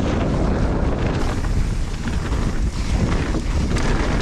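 Heavy wind buffeting the camera microphone of a mountain bike at speed on a downhill trail, with a steady rush and scattered small ticks and rattles from the bike and tyres on the dirt.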